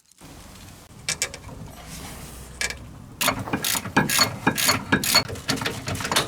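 Hand ratchet wrench clicking as it is worked back and forth: a few scattered clicks at first, then a fast run of ratcheting strokes from about three seconds in.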